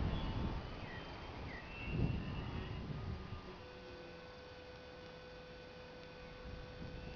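Wind gusting across the microphone, with one stronger swell about two seconds in, then a faint steady whine in the background.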